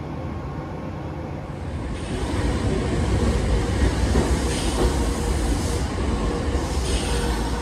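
Nankai Koya Line train running on the rails: a steady low rumble that grows louder about two seconds in, with two short bursts of hiss in the second half.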